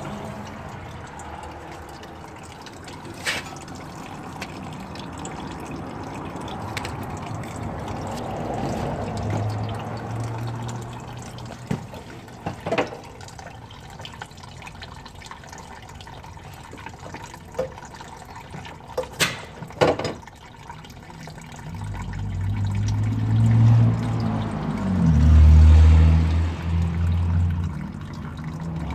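Liquid running and dripping out of a Ford Edge's open oil drain hole while the cooling system is under a pressure tester: coolant getting into the oil, which the owner puts down to a bad water pump. A few sharp clicks are heard, and louder low rumbling comes in near the end.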